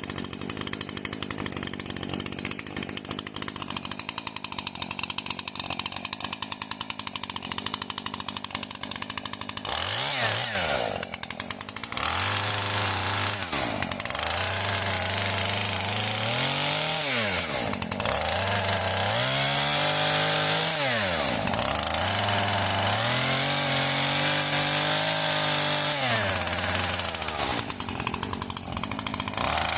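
A two-stroke chainsaw cutting up hawthorn. It runs steadily for the first ten seconds or so, then the engine speed repeatedly sags and picks up again, every few seconds, as the chain works through the wood.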